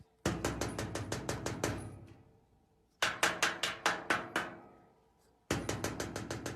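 Three runs of rapid knocking on a hard, ringing object, about eight knocks a second, each run fading away over a second or two.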